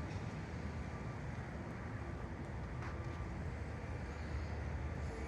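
A vehicle engine running with a steady low rumble under a faint, even hiss.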